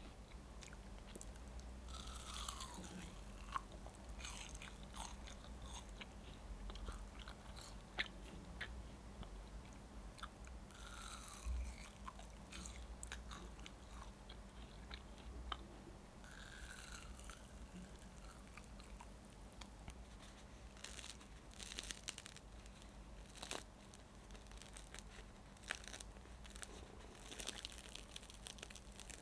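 A person eating close to the microphone: chewing and crunching, with scattered small clicks and a few brief louder noisy patches.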